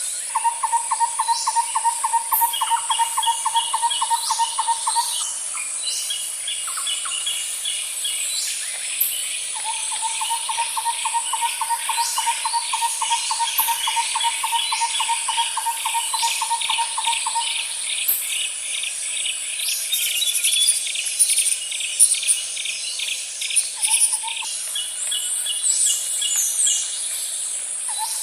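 Nature ambience of birds chirping in quick runs over a steady high-pitched insect drone. A long, evenly pulsing low trill sounds twice, the second lasting about eight seconds.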